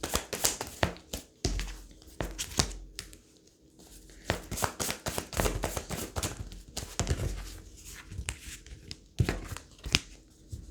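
Tarot cards being shuffled and handled, rustling and snapping in several flurries.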